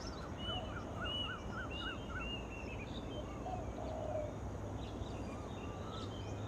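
Birds calling: two quick series of short, repeated rising-and-falling notes in the first two seconds, then scattered single calls. A steady low background rumble underlies them.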